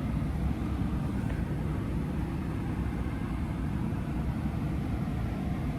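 Steady low rumble of a Ram 1500's Hemi V8 engine running, heard from inside the cab.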